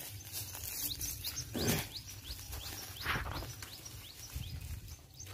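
A bird calling over and over in short, high, falling chirps, a few each second. Two louder brief rustles come through about a second and a half apart, near the middle.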